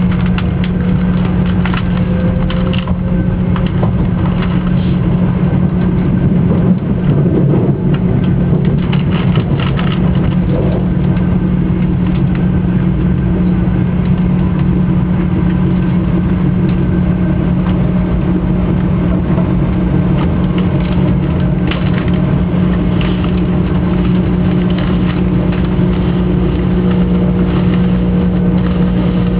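Joetsu Shinkansen bullet train running at speed: a steady, unchanging rumble with a constant low hum.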